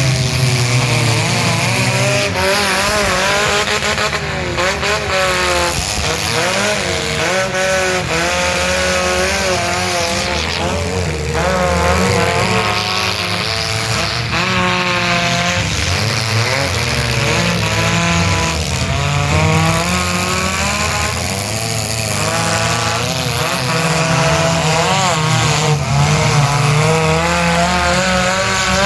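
Several compact demolition-derby cars' engines revving hard together, their pitch constantly rising and falling as the cars push and ram one another, with now and then the bang of a collision.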